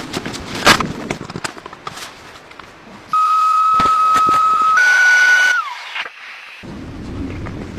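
Footsteps crunching in deep snow, then about three seconds in a steady high-pitched whine starts abruptly, steps slightly higher, and glides down in pitch as it stops.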